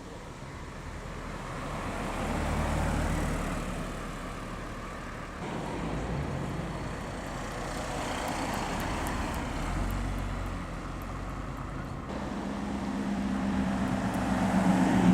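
Car engines as several cars drive past one after another, each swelling and fading, with the loudest building near the end.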